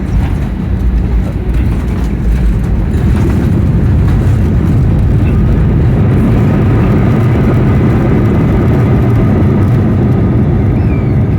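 Airliner landing: a loud, steady rumble of jet engines and rushing air, building over the first few seconds and then holding level.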